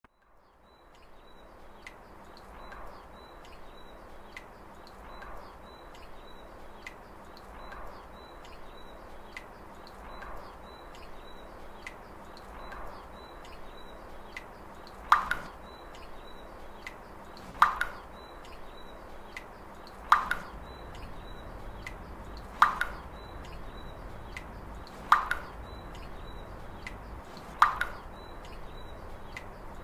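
A steady, machine-even rhythm of light high ticks, with a plop-like knock about every two and a half seconds; about halfway through the knocks turn sharp and much louder.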